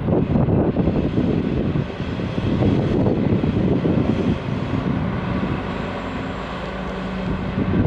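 A train rumbling as it pulls out of the station, with a steady low drone that settles slightly quieter in the second half.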